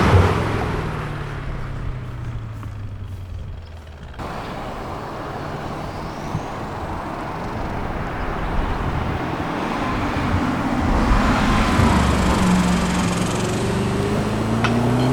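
Audi RS6 Performance twin-turbo V8 running through a Valvetronic catback exhaust: the revs fall away over the first few seconds, it runs more quietly for a while, then the revs climb again near the end as it accelerates.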